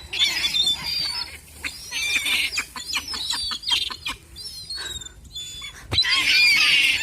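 A flock of seagulls calling over one another, many short cries overlapping in a busy clamour, with a sharp click about six seconds in.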